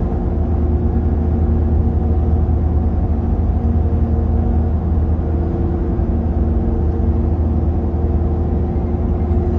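Motor vehicle engine running, heard as a steady low drone with a constant hum and no change in pitch.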